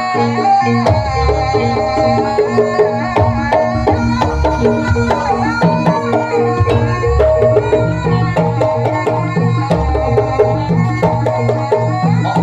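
Jaranan music from a live ensemble: hand drums playing a busy rhythm under a melody of held notes, with a low bass pulse.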